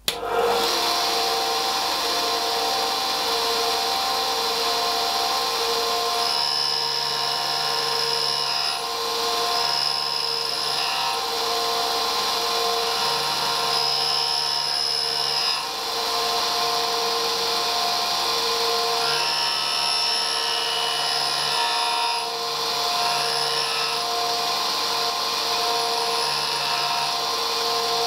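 Tool and cutter grinder running with its wheel grinding a cutter tooth. It starts abruptly, and a harsher, higher grinding note comes and goes every few seconds over the steady hum of the machine.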